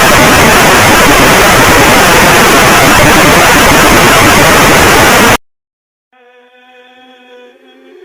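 Loud, harsh static hiss from an emergency alert recording that cuts off abruptly about five seconds in. After a brief silence a faint, steady pitched tone with many overtones begins, the start of the next alert sound.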